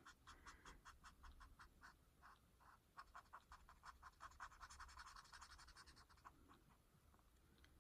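Faint, quick scratching of colouring strokes on paper, about four strokes a second, dying away near the end.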